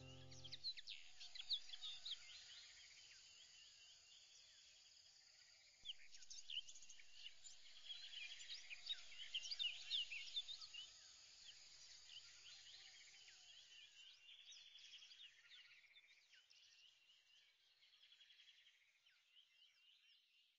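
Faint birdsong: many short chirps and whistles from several birds, fading out toward the end.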